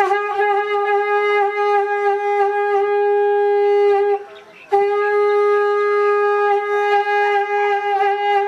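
Two long, steady notes blown on a horn, with a short break for breath about four seconds in.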